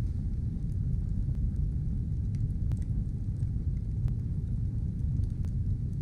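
Fire burning: a steady low rumble with a sharp crackle roughly every second or so.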